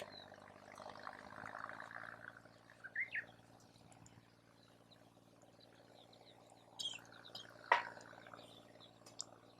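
Campfire crackling softly, with scattered small ticks and a few sharp pops of burning wood, the loudest pop about eight seconds in; a short hiss comes and goes early on.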